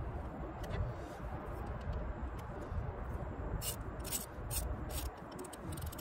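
Hand tools working on the engine: a handful of short, sharp metallic clicks in the second half over a low, steady rumble.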